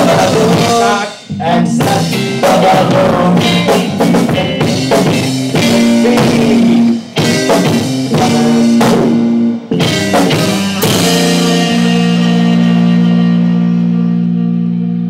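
Rock band playing live, with electric guitar and drum kit hitting accents broken by short stops. From about eleven seconds in, one chord is held and rings, slowly fading.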